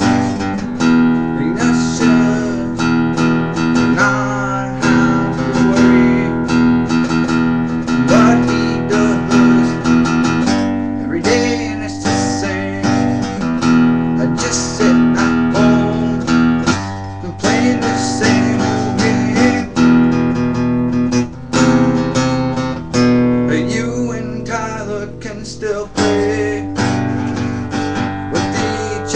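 Acoustic guitar music, strummed and plucked chords with a steady rhythm.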